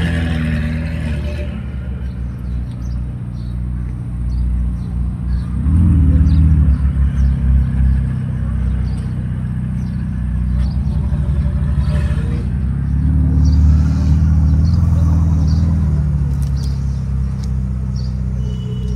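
Ferrari engine running steadily under load, its pitch and loudness rising and falling twice as the car is driven.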